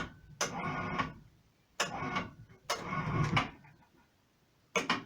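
Lifting closet mechanism running in four short bursts, the last one brief, with a steady machine tone in each run and pauses in between.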